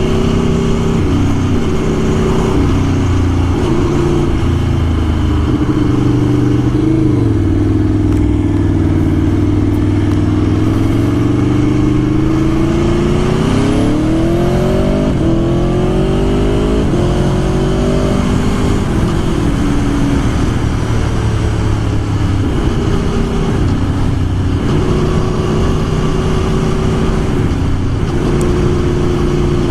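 Aprilia Tuono V4 1100's V4 engine and exhaust on the move. It runs steadily at first, then rises steeply in pitch as the bike accelerates around the middle, drops back, and settles into steady running again.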